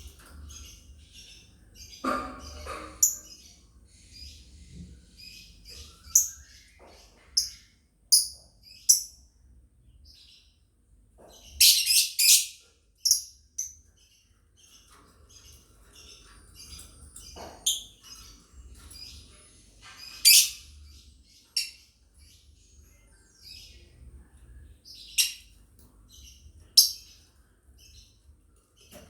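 Lovebirds chirping: a busy, continuous run of short high chirps, with a dozen or so louder sharp calls scattered through.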